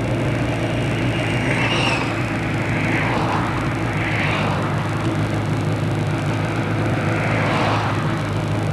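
Motorcycle engine running at a steady, even pitch while riding, with a few brief rushes of hiss over it.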